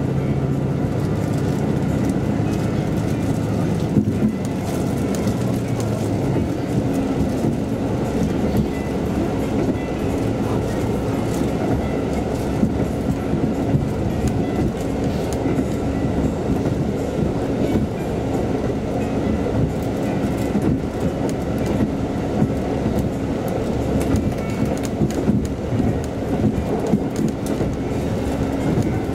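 JR Kyushu KiHa 185 series diesel railcar running at speed, heard from inside the carriage: a steady rumble of engine and running gear, with wheels clicking over rail joints. A low hum in it fades about six seconds in.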